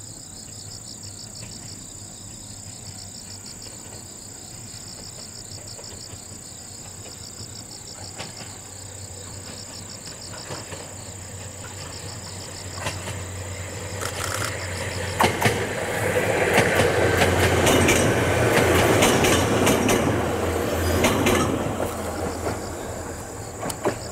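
Ohmi Railway 800-series electric train approaching and passing, its wheels clicking over rail joints; it builds from about twelve seconds in, is loudest from about sixteen to twenty-one seconds, then fades. Crickets chirp steadily beneath it at the start.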